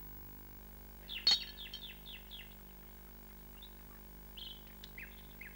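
Birds chirping: a quick run of short, downward-sweeping chirps begins about a second in, with a sharp click among the first of them, and scattered chirps follow later. A faint steady hum lies underneath.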